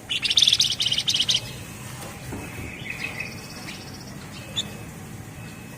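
Javan fulvetta, the 'flamboyan' cage bird, singing a loud, dense, rapid trill for about the first second and a half. Softer chirps, a faint higher trill and one sharp note follow.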